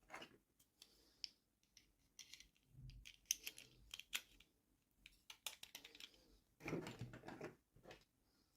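Hands handling small toy packaging: quick light clicks and taps of plastic and paper, with a longer rustle about seven seconds in.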